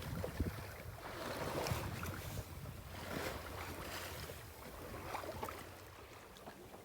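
Water washing and splashing along the hull of a wooden sailboat under sail, swelling in a few surges about two seconds apart, with some wind noise.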